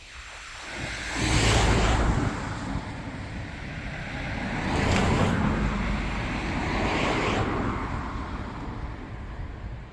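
A miniature railway train running on the 15-inch gauge line, heard as a noisy rush that swells three times, with wind buffeting the microphone.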